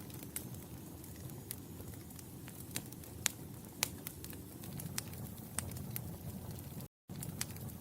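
Wood fire burning in a fireplace: a low steady rumble of flames with irregular sharp crackles and pops from the burning logs. The sound cuts out completely for a split second just before the end.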